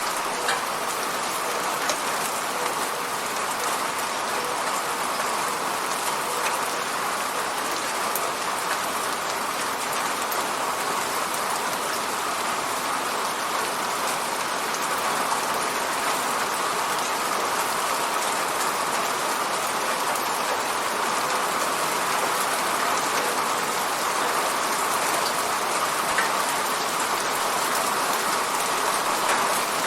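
Steady rain falling on an apartment window, an even hiss with a few sharper drop taps now and then.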